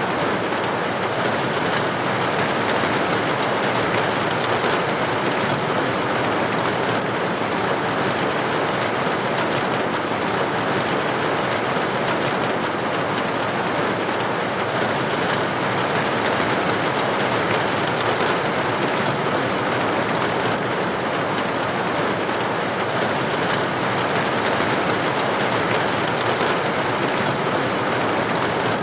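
Steady rain falling on window glass: an even, unbroken hiss of raindrops that does not change.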